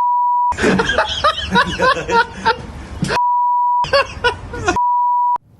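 A censor bleep, a steady beep tone, sounds three times, each about half a second long, cutting into excited talk that runs between the beeps.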